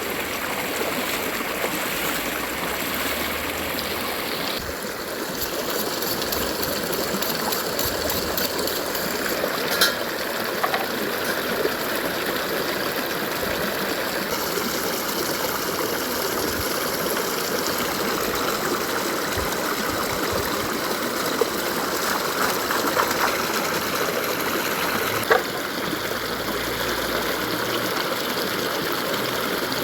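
A clear forest river running steadily, with a few short, sharp clicks now and then.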